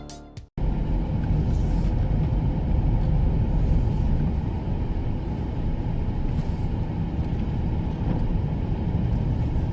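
Steady low rumble of a motor vehicle, starting suddenly about half a second in and holding even throughout.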